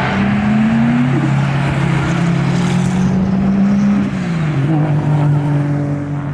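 A steady engine drone, its pitch rising slightly in the first second, holding, then dropping about four seconds in.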